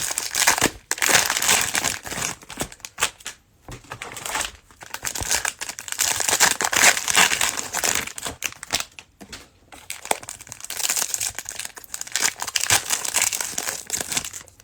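Cellophane wrapper of a trading-card cello pack crinkling and tearing as it is opened, in irregular bursts with short pauses between them.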